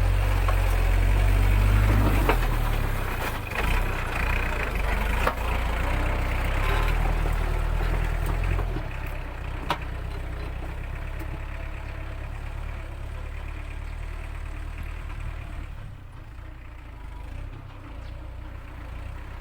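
Iseki NT554 tractor's diesel engine running under load while it pushes and levels soil, louder for the first eight seconds or so and then easing off. A few sharp knocks sound over it.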